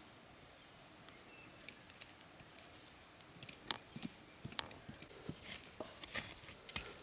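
Faint background with a thin steady high tone. From about three seconds in comes a run of irregular light clicks, snaps and rustles that gets busier near the end.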